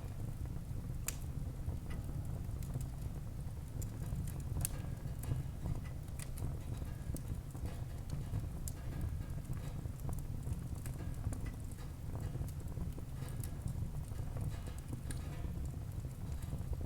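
Wood fire burning in a fireplace hearth: a steady low rumble of flames with irregular crackles and sharp pops of the burning wood.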